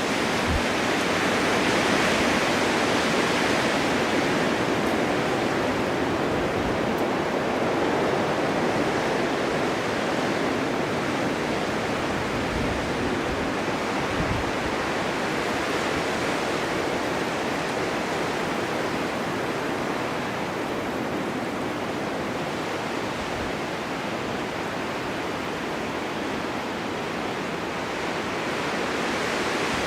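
Blizzard wind driving snow: a steady rushing that swells in gusts, strongest a few seconds in and rising again near the end.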